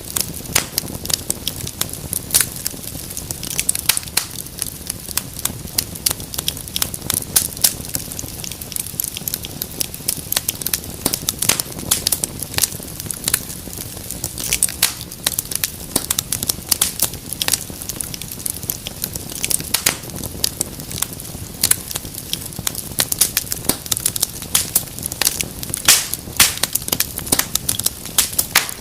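Wood fire crackling in a fireplace: a dense, irregular stream of sharp pops and snaps over a steady low rush of flame.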